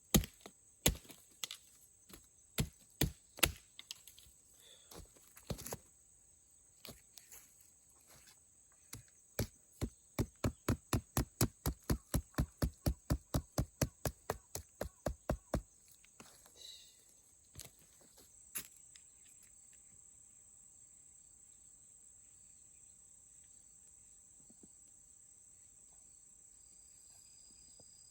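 Sharp chopping knocks on wood, irregular at first, then a fast even run of about four strokes a second for some six seconds. A steady high insect chirring carries on after the strikes stop.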